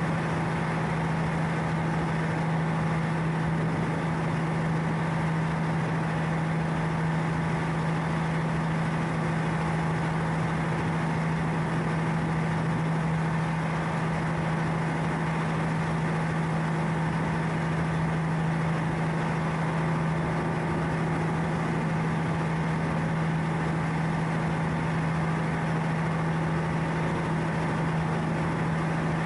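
Ship's diesel engine running steadily: an even, unchanging hum with a strong low drone.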